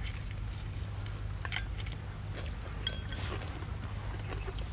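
People eating: chewing with light clicks and clinks of chopsticks and bowls, two or three brief ringing clinks around the middle, over a steady low hum.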